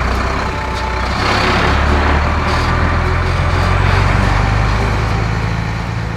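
Heavy construction-vehicle engine sound effect: a loud, steady low engine rumble under a rushing noise, easing slightly near the end.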